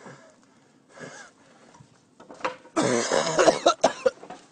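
A man coughing and wheezing, with a short fit about a second in and a loud, harsh fit near the end.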